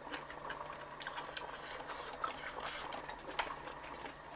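Eating sounds: chewing with many small, irregular clicks and taps of utensils.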